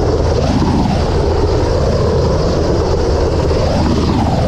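Helicopter rotor and turbine noise, loud and steady, swelling and easing twice.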